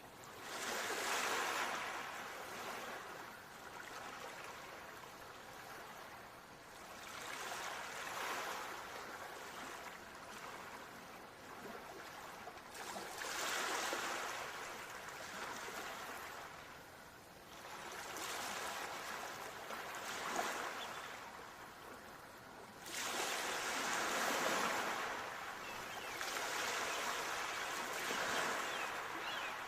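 Ocean waves breaking and washing up on a shore, the hiss of the surf swelling and ebbing about every five to six seconds.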